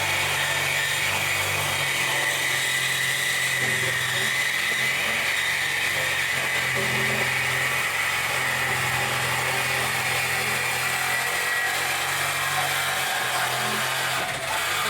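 Reciprocating saw (Sawzall) cutting through a car's exhaust pipe, running steadily with a wavering drone as the blade works through the metal.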